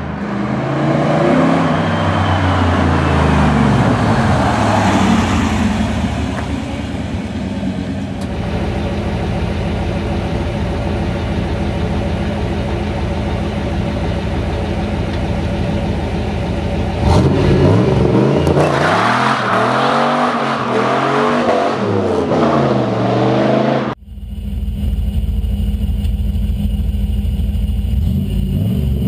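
Pontiac Trans Am engine revving hard, its pitch climbing and falling over and over. About 24 seconds in, the sound breaks off abruptly and the engine picks up again.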